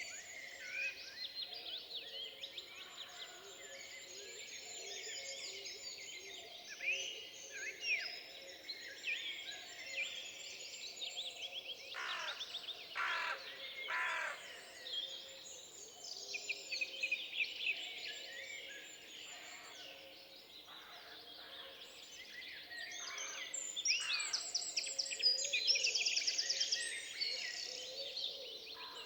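Many songbirds singing at once in woodland, a dense overlapping chorus of whistles, chirps and trills, with rapid high trills loudest near the end and a few harsher sharp calls about halfway through.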